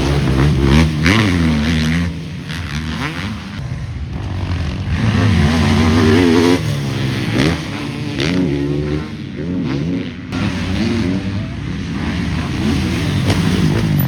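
Several motocross dirt bikes racing on a track, their engines revving up and falling off again and again as they accelerate out of corners and shift, with more than one bike heard at once.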